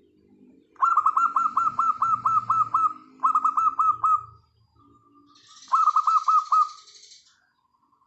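Birdsong: three loud bursts of rapid, sharp chirps, about eight notes a second, over the soft low cooing of a zebra dove (perkutut) at the start. A brief hiss sounds along with the last burst.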